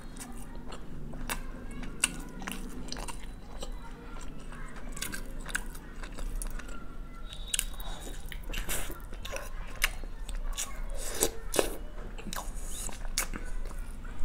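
Close-up chewing and biting of spicy biryani, with many small wet mouth clicks and smacks throughout. About eight seconds in, a whole boiled egg is bitten into.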